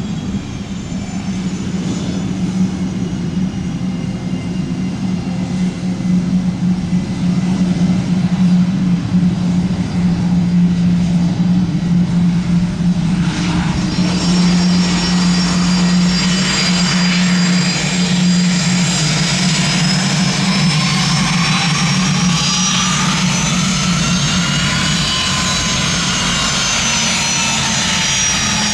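Airplane engines running: a steady low drone for most of the time, joined from about halfway by a high whine that grows louder, with a tone that rises and then falls in pitch near the end.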